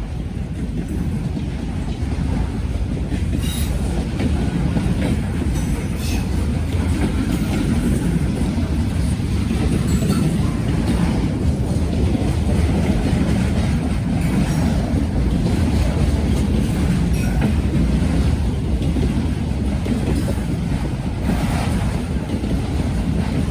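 Norfolk Southern freight train rolling past, a steady low rumble of cars with wheel clicks over the rail joints.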